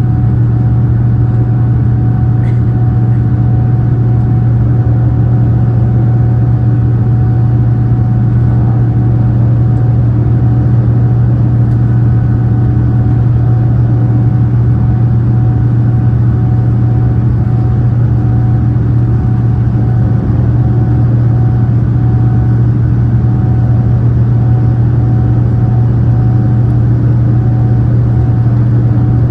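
Steady in-flight cabin noise of a Boeing 787-9 Dreamliner: a loud, even rush of engine and airflow noise with a deep hum and a few faint steady tones over it.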